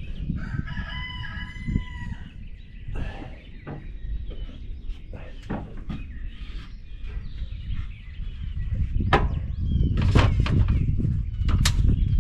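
A rooster crows once near the start, one call about a second and a half long. Scattered knocks and clatter follow, over a low rumble that grows louder in the last few seconds.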